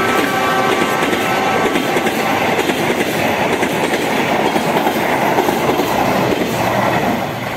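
Passenger train coaches rolling past at speed, the wheels clattering steadily on the rails. A steady ringing tone lingers over the rumble for the first two seconds. The noise starts to drop away at the very end as the last coaches go by.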